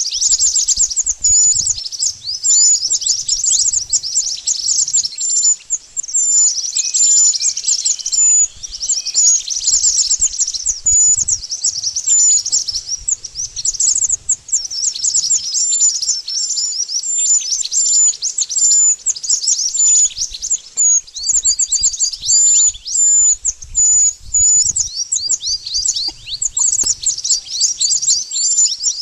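Pied bushchat (burung mantenan) singing. It gives rapid, high, sweeping chirps in dense runs, repeated with only brief gaps.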